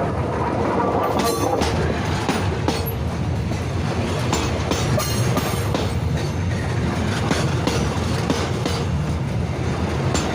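Train running on the rails: a steady low rumble with frequent sharp clicks of the wheels passing over rail joints.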